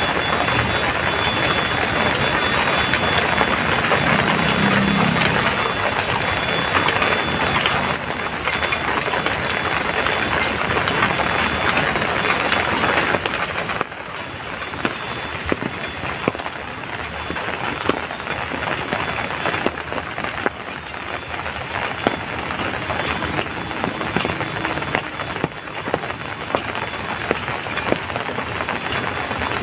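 Heavy rain falling, a dense steady hiss of drops. About halfway through it drops suddenly to a lighter rain in which separate drops tick and patter.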